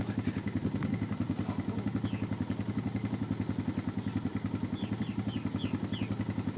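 Engine idling with a steady, fast-pulsing beat, joined by a few short, high, falling bird chirps, mostly about five seconds in.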